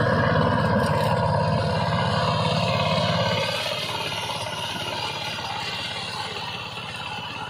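Walking power tiller's single-cylinder diesel engine running under load while ploughing, a rapid steady chugging. It turns fainter from about three and a half seconds in and keeps fading.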